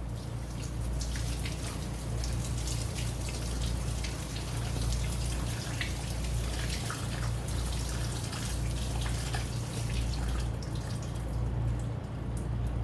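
Arugula being rinsed under running tap water: a steady splashing with many small irregular drips and splashes.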